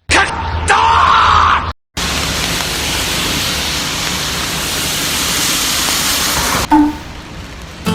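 Heavy rain falling, a steady hiss of noise, in short clips that cut off and restart abruptly, with a louder stretch in the first second or so.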